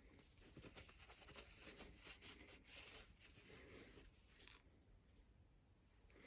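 Faint, irregular scratchy rubbing with a few light clicks as a metal bicycle hub is rubbed clean and handled by hand, dying away to near silence after about four and a half seconds.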